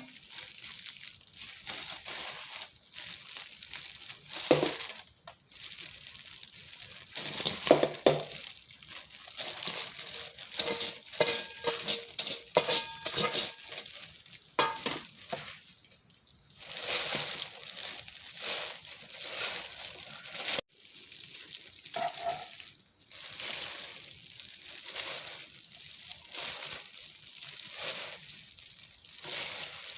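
Irregular rustling and crunching kitchen handling noises, with a few light clinks of utensils against dishware.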